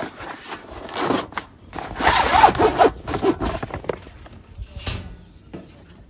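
Irregular rasping and rubbing strokes, loudest about two to three seconds in.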